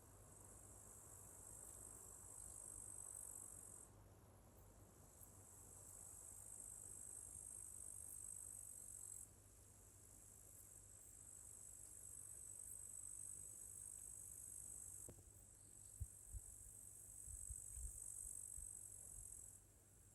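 Crickets trilling in long, high-pitched bouts of about four to five seconds, with short pauses between them. A few faint low thumps come near the end.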